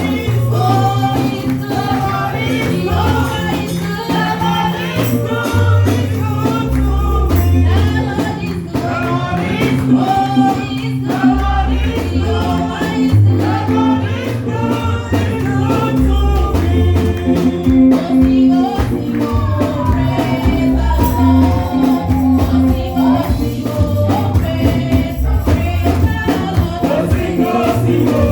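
Live gospel praise music: voices singing over a stepping bass line and steady percussion, with a tambourine-like jingle.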